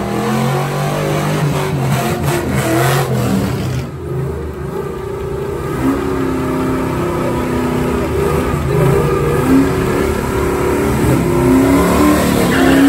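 Car engine revving, its pitch stepping up and down, with a brief drop in level about four seconds in.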